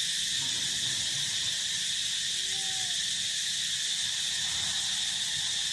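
Steady, dense chorus of field insects, a continuous shrill high-pitched buzzing, with a faint brief call about halfway through.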